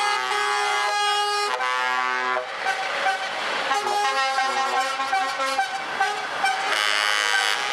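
Truck air horns sounding, several at different pitches together: a held chord for the first two seconds or so, then overlapping horn blasts over the noise of passing trucks.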